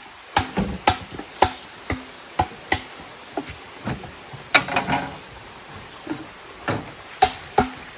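A tool striking wood over and over in irregular blows, roughly two a second, with a pause of over a second before the last few strikes.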